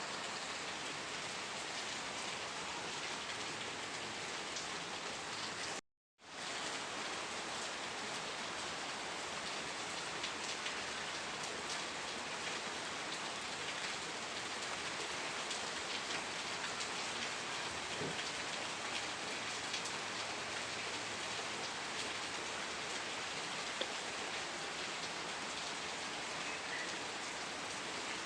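Steady rain falling, an even hiss with a fine patter of individual drops. The sound cuts out to silence for about half a second around six seconds in, then comes straight back.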